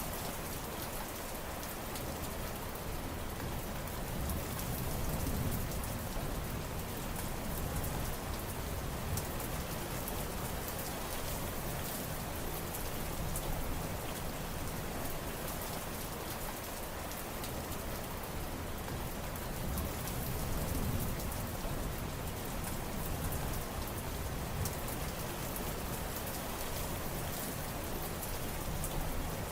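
Steady rain falling, with a dense patter of drops striking surfaces and a low rumbling undertone that swells and eases every few seconds.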